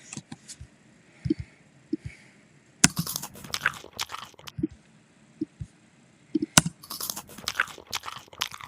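A person chewing and crunching food, with irregular crunches that come in thicker clusters about three seconds in and again near the end.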